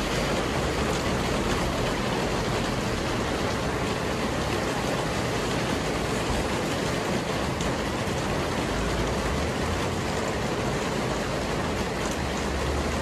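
Heavy rain pouring steadily onto wet paving and puddles, a dense, even hiss.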